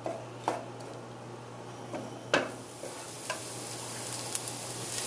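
Chopped shallots sizzling in olive oil in a pot, stirred with a wooden spoon, with a few sharp knocks, the loudest about two and a half seconds in.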